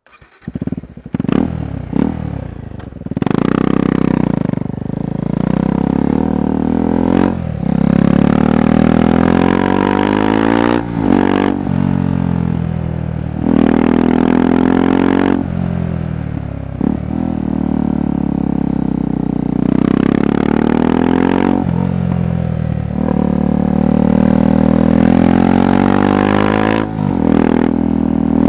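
KTM 390 Adventure's single-cylinder engine and exhaust pulling hard, its pitch climbing and then dropping sharply at each gear change or throttle lift, about ten times over, with rougher stretches of on-and-off throttle between them. The sound cuts in abruptly at the start.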